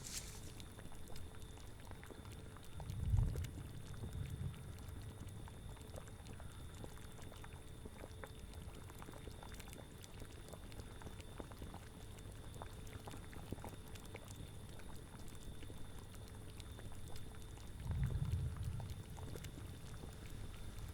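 A cauldron bubbling at a steady boil, with many small pops over a low rumble that swells twice, about three seconds in and near the end.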